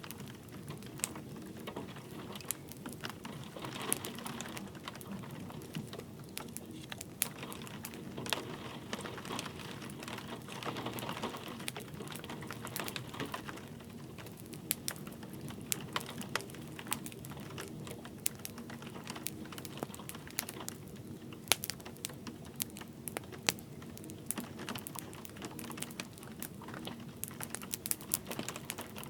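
Wood fire crackling with irregular sharp pops and snaps over a steady patter of light rain.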